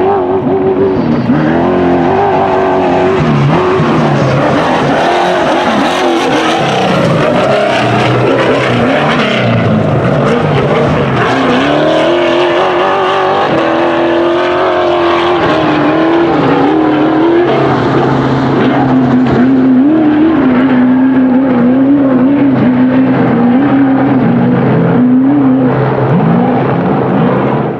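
Off-road race truck engine running hard, its revs rising and falling over and over as it drives, starting and stopping abruptly.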